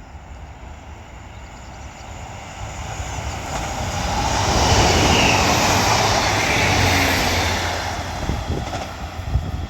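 Northern Class 156 and Class 150 Sprinter diesel multiple units coupled together and passing through the station. The train noise builds to a peak about five to seven seconds in, then fades, with a few low thumps near the end.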